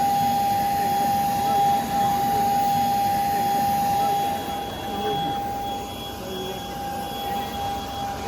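Private jet's turbine engines running, a steady whine over a loud rush of noise that eases down about halfway through.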